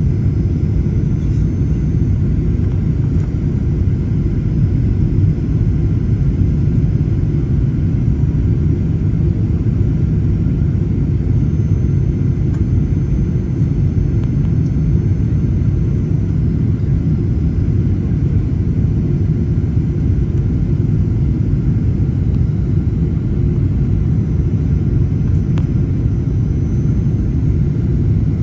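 Boeing 737-800 cabin noise: a steady, unchanging low rumble from the CFM56 engines and airflow, heard from inside the cabin.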